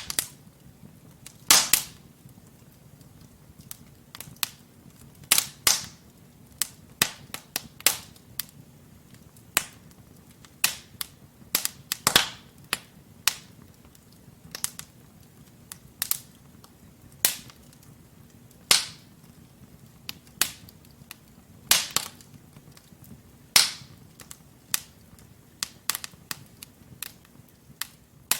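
Wood fire in a fireplace crackling: burning logs giving off sharp, irregular pops and snaps, some much louder than others, over a faint low hiss of the flames.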